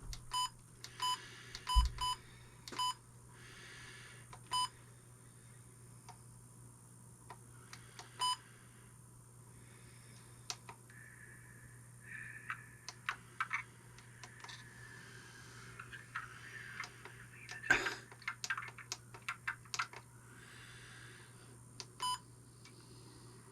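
Trail camera's menu buttons being pressed over and over, each press giving a short electronic beep, several in quick succession in the first few seconds and more spaced out later, while he tries to delete its files. Small plastic clicks and handling noise come in the middle, with one louder click.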